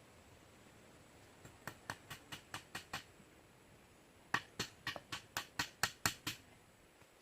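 Two runs of quick, sharp taps or knocks, about four to five a second; the second run is louder.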